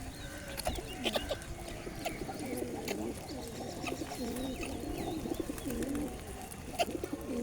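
Pigeons cooing, a run of low, wavering coos through the middle, with a few sharp clicks in between.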